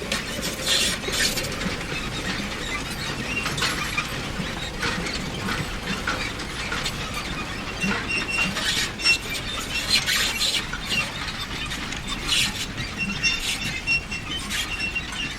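Manure spreader running, with a steady mechanical noise broken by irregular clanks and rattles and a high squeak that comes and goes.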